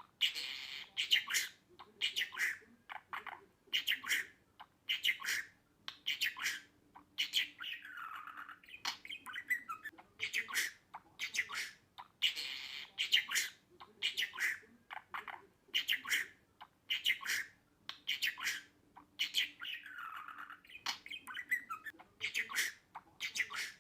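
Budgerigar chattering in short, high squawks and chirps with brief pauses between them; the same sequence repeats about every twelve seconds.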